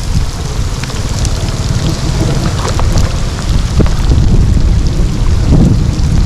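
Loud, steady rush of rain and running water with scattered sharp taps and splashes.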